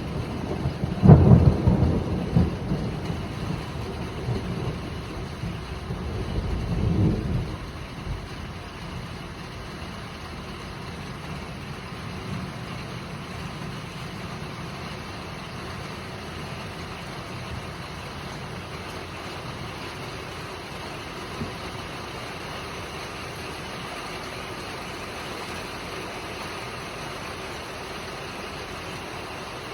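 Thunder rumbling during a heavy downpour. It cracks loudly about a second in, rolls on with a second swell, and dies away after about eight seconds, leaving the steady hiss of heavy rain.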